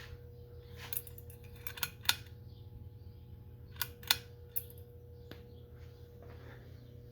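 CEI-made Crest 2000 Series ceiling fan running on a solid-state speed control with a low, steady motor hum and a faint steady tone. A handful of sharp clicks come in two clusters, about a second and about four seconds in.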